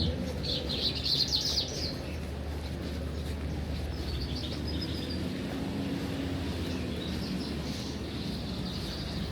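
Small birds chirping in short, high, rapid trills, in three separate bouts, over a steady low background rumble.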